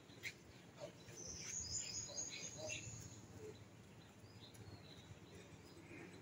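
Faint bird song: a quick run of high chirps starting about a second in and lasting around two seconds, over a low, steady outdoor background.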